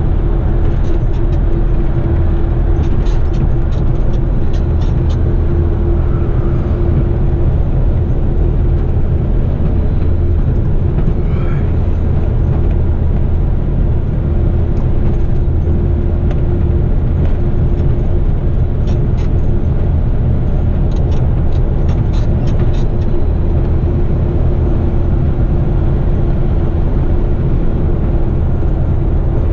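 Heavy 8-wheeler twin-steer rigid truck driving at a steady speed: continuous diesel engine drone and road noise with a constant low hum. Faint light clicks come a few seconds in and again about two-thirds of the way through.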